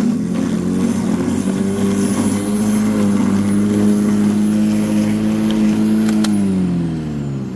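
Black & Decker 42 cm 1800 W electric lawnmower motor running steadily with no hands on the controls, its power switch stuck in the on position. About six seconds in there is a click, and the motor winds down with a falling pitch.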